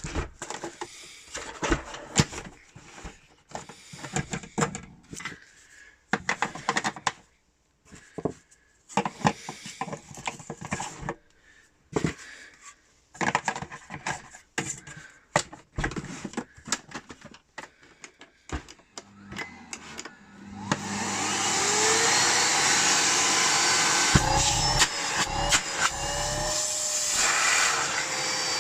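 Clicks, knocks and rustling as a new dust bag is fitted into a Miele Complete C3 PowerLine vacuum cleaner and its lid is shut. About twenty seconds in, the 890 W vacuum motor switches on with a short rising whine and then runs loud and steady, with a few knocks part way through.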